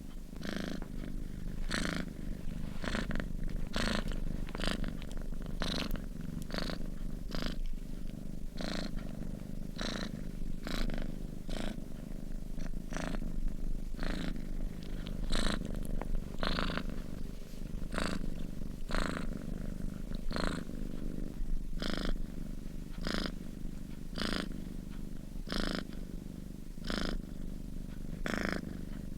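Domestic cat purring in its sleep: a steady low purr with a breathy rasp recurring about once or twice a second.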